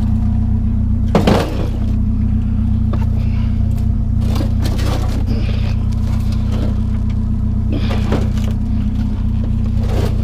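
Truck engine idling steadily, with scattered knocks and scrapes of scrap items being handled and loaded; the loudest is a clatter about a second in.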